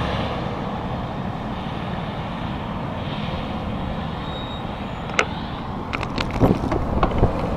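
Steady road traffic noise from passing cars and trucks. Sharp clicks and crackles come about five seconds in and again near the end.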